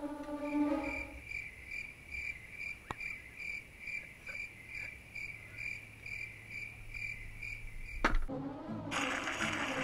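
A cricket chirping in a steady rhythm, about two chirps a second, as orchestral music fades out in the first second. A sharp click comes about eight seconds in, and a steady rushing noise takes over near the end.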